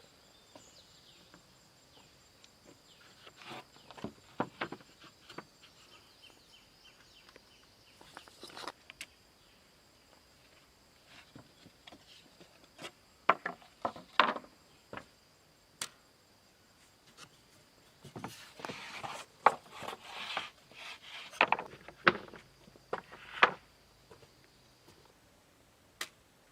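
Irregular wooden knocks and clatter in clusters, loudest a little past the middle, from sticks and poles being handled and struck during shelter building. Over it runs a steady high-pitched insect drone that stops near the end.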